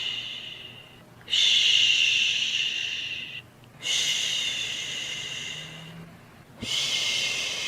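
Soothing 'shhh' shushing for a baby, repeated in long shushes: one fading out at the start, then three more that each begin sharply and fade over about two seconds, spaced about two and a half seconds apart.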